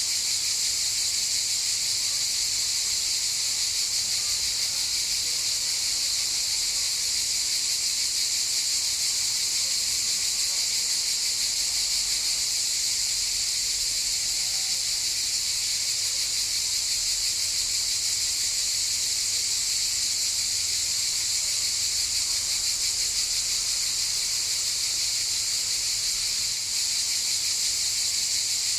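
Chorus of cicadas: one steady, high-pitched buzz without breaks.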